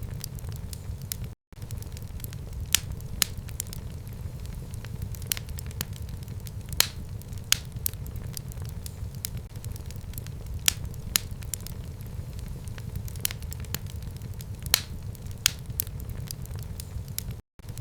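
Fire in a fireplace crackling, with irregular sharp pops over a steady low rumble of burning. The sound drops out completely for a moment twice.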